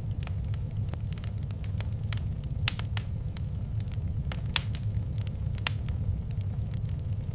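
Wood fire in a fireplace crackling, with many irregular sharp pops over a steady low rumble. The loudest pops come a little under three, about four and a half, and about five and a half seconds in.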